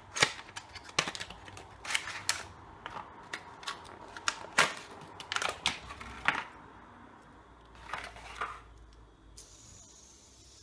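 Hands handling fidget spinner packaging: a run of sharp, irregular clicks and taps as one spinner is put back in its box and the next one is taken out, thinning out after about six seconds.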